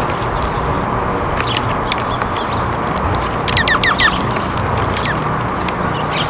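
Small songbird calling: a quick run of about five short falling notes a little past halfway, with a few faint chips around it, over a steady background hiss.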